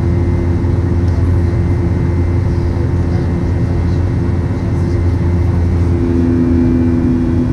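Boeing 737-900 cabin noise at the front of the cabin: a steady, loud low drone from its CFM56-7 engines and the airflow. A couple of steady hum tones sit above the drone, and one of them strengthens about six seconds in.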